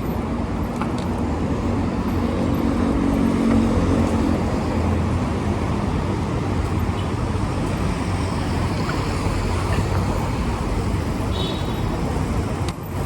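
Road traffic noise from passing motor vehicles, with a louder engine hum between about two and five seconds in.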